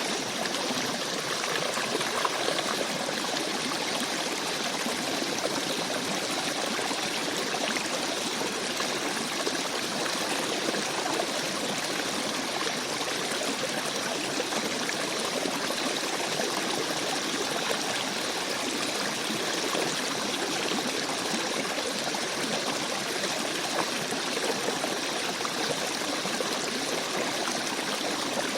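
Small stream babbling over rocks, a steady rush of water with fine splashing and trickling.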